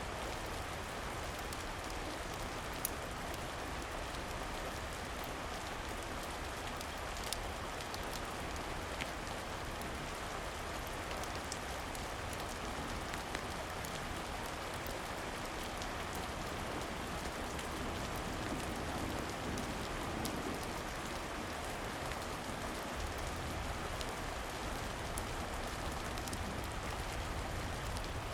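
Steady rain falling, with a few sharp crackles from a wood fire now and then.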